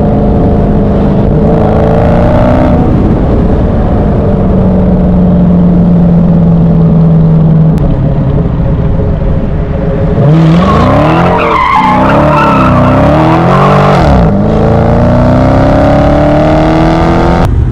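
A car engine running at steady revs that sag slowly. About ten seconds in, the revs jump and swing up and down for several seconds with tires squealing, then climb steadily.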